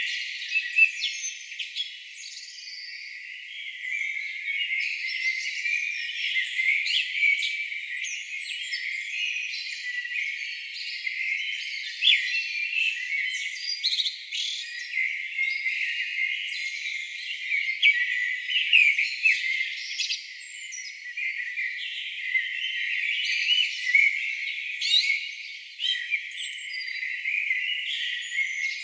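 A dawn-chorus-like mix of several songbirds singing at once: many short chirps, trills and whistled glides overlapping without a break. The recording has everything below the birds' range cut away, so it sounds thin and high.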